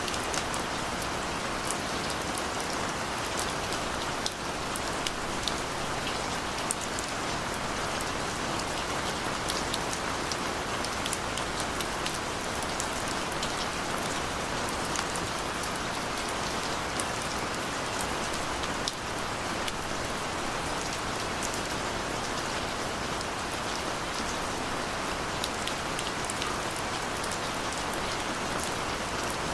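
Steady rain falling on a surface, an even hiss with many scattered individual drops ticking.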